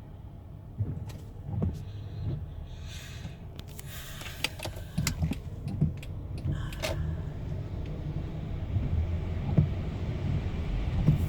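Car running, heard from inside the cabin as a steady low rumble, with scattered clicks and rustles, mostly a few seconds in.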